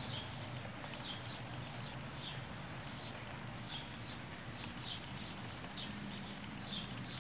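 A bird chirping again and again, faint: short, high, falling chirps about one or two a second, over a low steady hum.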